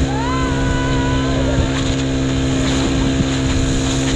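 Motorboat engine running steadily at speed while towing a banana boat, over a loud rush of wind and water. A drawn-out high tone rises and falls over it during the first two seconds.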